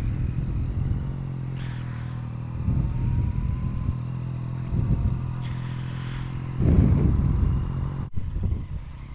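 Yamaha MT-09's three-cylinder engine running at a steady pitch through an Akrapovic carbon full exhaust and race-flashed ECU, with uneven low rumbling surges over it, the loudest about two-thirds of the way in. The sound drops out for an instant about eight seconds in.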